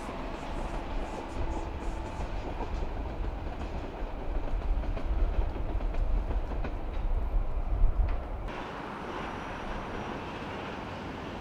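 A train running on the rails: a heavy low rumble with some clicking, growing louder, then breaking off abruptly about eight seconds in and leaving a lighter steady hiss.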